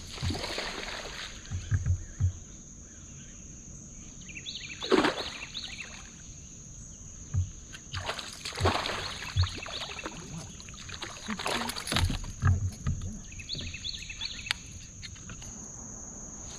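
Kayak being paddled: the paddle swishes through the water several times, with short low knocks on the hull. A steady high insect drone runs underneath.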